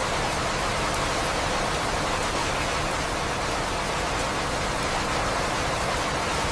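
Steady rain falling, an even, unbroken hiss of rain with no thunder.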